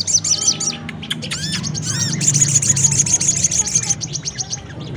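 Bird lure calls of sogon and kolibri kelapa (brown-throated sunbird) mixed together: quick repeated high arching chirps, with a fast high trill from about two to four seconds in.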